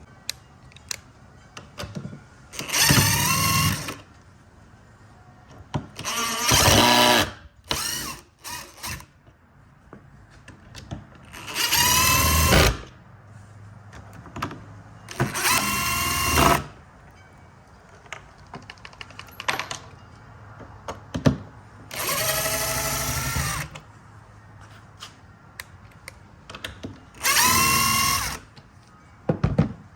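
Cordless power drill or driver running in short bursts of a second or so, about eight times, its pitch rising as each burst spins up, with small clicks and knocks in between: screws being driven out of a speaker shipping crate.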